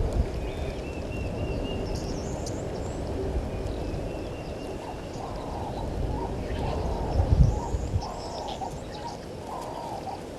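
Wild birds calling at an African bush waterhole: thin high chirps and a short trill, then from about five seconds in a low cooing phrase repeated about once a second. A low, uneven rumble underlies it, swelling briefly about seven seconds in.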